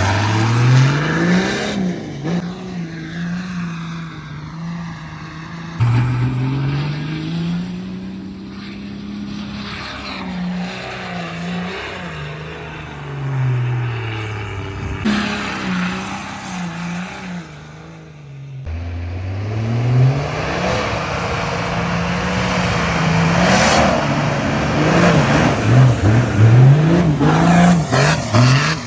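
Turbocharged Nissan TD42 straight-six diesel with an HX35 turbo and external wastegate, its revs climbing, holding high and dropping back several times, the wastegate opening at the top of the revs. The sound breaks off abruptly a few times and starts again on a fresh climb.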